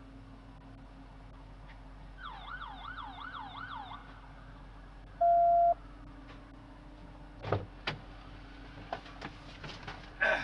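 A police siren yelping faintly, its pitch swinging up and down about four times over two seconds. It is followed by a short, loud electronic beep and then a few sharp clicks.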